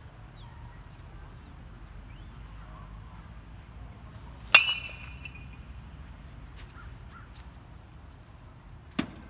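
A baseball bat striking a ball: one sharp crack that rings on briefly about halfway through, then a shorter, duller knock near the end.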